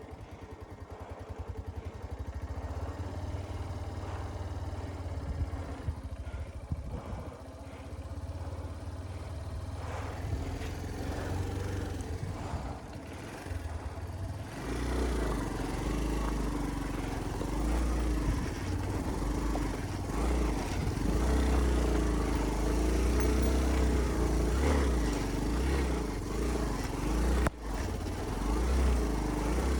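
Motorcycle engine running as the bike is ridden over a rough off-road track. The engine grows louder and works harder about halfway through, its pitch wavering with the throttle.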